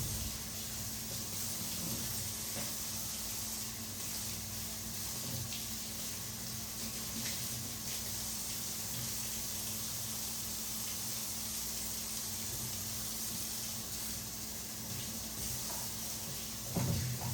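Steady rush of running water, with a faint steady hum beneath it and a short low thump near the end.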